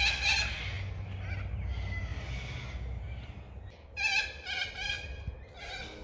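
Cockatoos giving harsh screeching calls: one at the start, then a run of four about four seconds in, over a steady low rumble.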